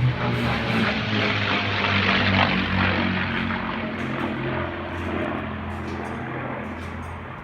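P-51 Mustang's V-12 piston engine on a very fast low pass, loudest about two and a half seconds in, then fading away as its pitch sinks.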